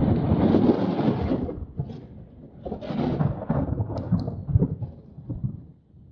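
Strong wind buffeting the microphone in gusts, a heavy low rumbling noise that surges and eases, loud at the start, dropping off about two seconds in, rising again about a second later and fading near the end.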